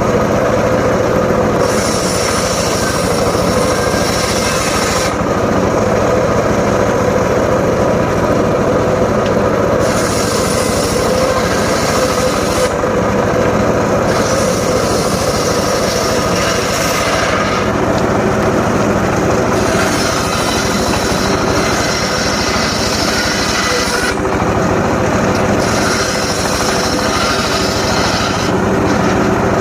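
Homemade engine-driven circular saw running steadily while its blade cuts teak in repeated passes. Each cut lasts a few seconds, and a higher cutting noise rises over the engine during each one, about five cuts in all.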